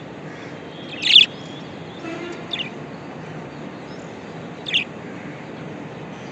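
Budgerigars chirping: three short, sharp chirps, the loudest about a second in, over a steady background hiss.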